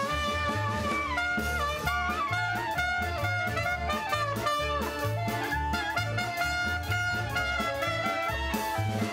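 Live klezmer band playing an upbeat instrumental tune, lead melody with vibrato over a steady bass beat.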